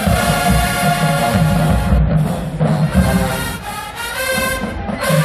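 Marching band playing: brass over a strong, steady low bass line.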